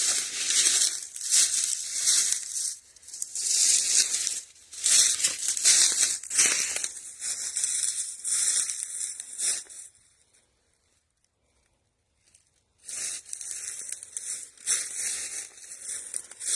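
Briars and brush rustling and scraping against clothing, with dry leaves crunching underfoot, as someone pushes through a briar thicket on foot. It comes in irregular bursts and stops for about two seconds past the middle.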